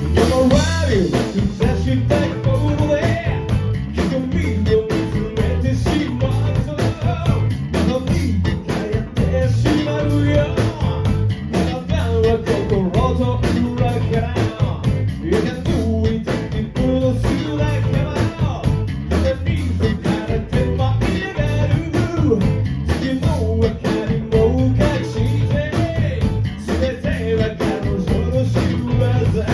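Live rock band playing: electric guitar and drum kit with a steady beat, and singing.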